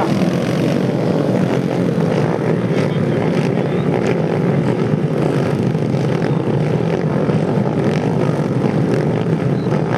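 Racing motorcycle engines running together at high revs: a steady, loud mechanical drone that cuts off at the end.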